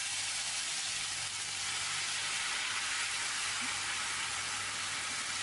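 Ground red chili and shallot paste sizzling steadily in hot oil in a frying pan as it is poured in, the start of sautéing a sambal on high heat.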